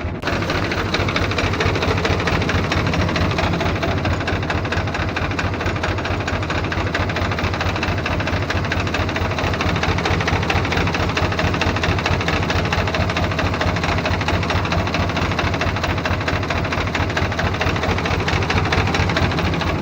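Radio-controlled construction vehicle running: a steady engine-like drone with a fast, even pulse.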